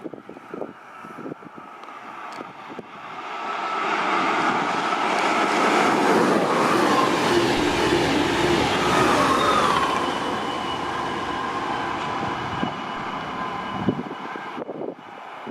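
A train passing at speed. It grows louder from about three seconds in, runs with a high whine over the rumble, and cuts off suddenly near the end as it clears.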